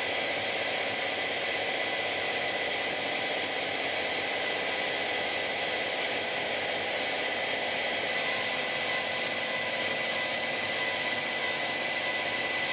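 Power electronics harsh noise: a steady, unchanging wall of harsh static with a thin high whine held through it.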